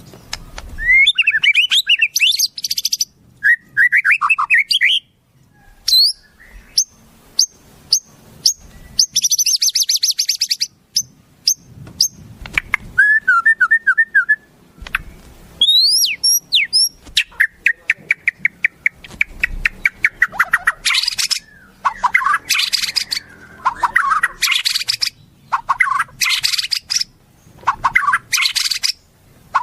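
Wild songbirds singing and calling in a rapid, varied sequence: sharp whistled glides, fast rattling note series and harsh buzzy phrases, one after another with short pauses.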